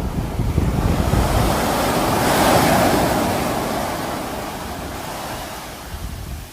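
A sea wave breaking: the surf's rush swells to a peak about two and a half seconds in, then washes out and fades.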